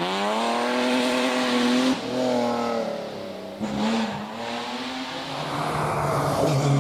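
Rally car engine revving hard as it accelerates up through the gears, with a gear change about two seconds in. There are more rising pulls and a short blip before the sound fades away.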